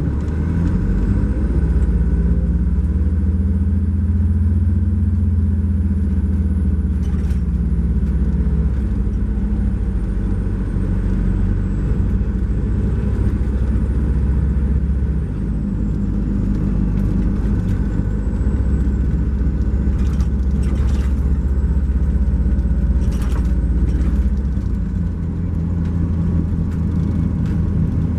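Cummins ISX12 diesel engine of a 2012 MCI J4500 coach running under way, heard from aboard the coach with a steady low drone. The engine note drops about halfway through and again near the end, and a faint high whine rises and falls above it.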